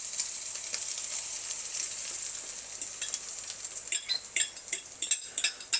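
Beaten eggs and cheese sizzling as they hit a very hot pan with browned sausage, a steady high hiss. From about three and a half seconds in, a quick run of clinks and scrapes as a utensil works the last of the mixture out of the bowl.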